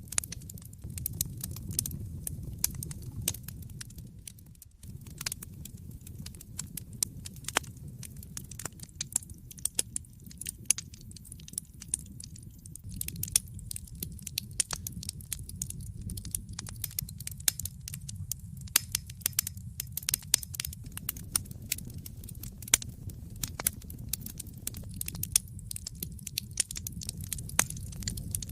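A wood fire in a fireplace crackling, with irregular sharp pops and snaps of varying loudness over a steady low rumble of flame.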